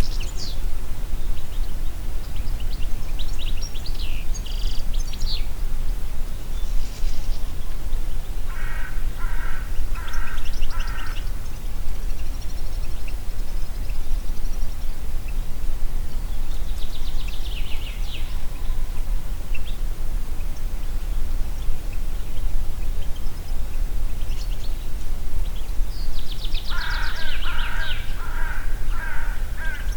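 Steady wind with a low rumble, while birds call off and on: high chirps and trills, and two bouts of rapid repeated harsher calls, about nine seconds in and near the end.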